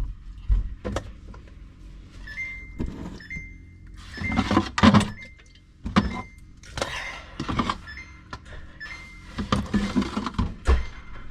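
Jars and food containers knocking and clattering as they are taken out of a refrigerator and set down, with bursts of rustling from packaging, in a small room.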